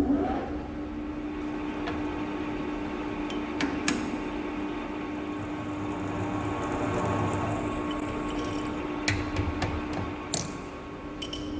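Lathe running with a steady hum while a centre hole is drilled into the end of a hydraulic cylinder rod, with a few light clicks and knocks along the way.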